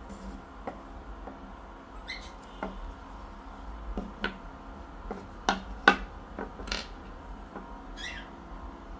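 Scattered light knocks and taps, about a dozen, the loudest a quick pair about two-thirds of the way in, consistent with a wooden log perch being repaired by hand. A pet parrot gives two short high squawks, one about two seconds in and one near the end.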